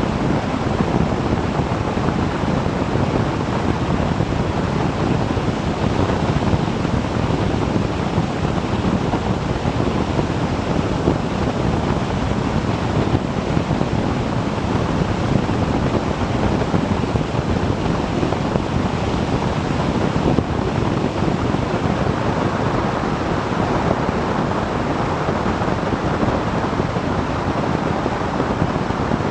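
Steady wind rush on the microphone of a moving motorcycle, with engine and road noise blended underneath.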